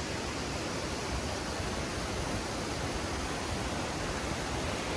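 Steady rush of a 200-foot waterfall, an even noise with no breaks.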